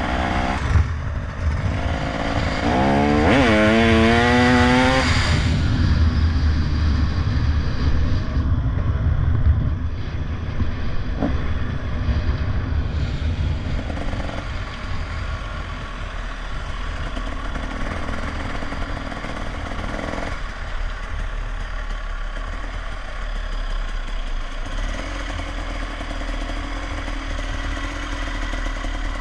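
Motorcycle engine running during a ride, revving up with a rising pitch about three seconds in, then settling to a steady run.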